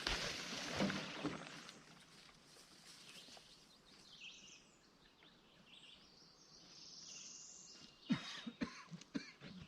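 Outdoor morning ambience with birds chirping faintly. A rustle in the first second and a half, and a quick run of knocks and clicks near the end.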